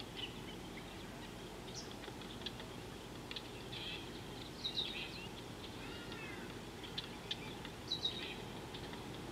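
Wild birds giving scattered short chirps and calls, several at a time, over a steady low background rumble. A few sharper, louder chirps come about halfway through and again near the end.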